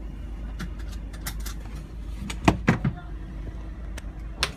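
Steady low vehicle rumble from driving on the road, broken by a scatter of sharp knocks. The loudest knocks come in a quick cluster about two and a half seconds in, and one more comes near the end.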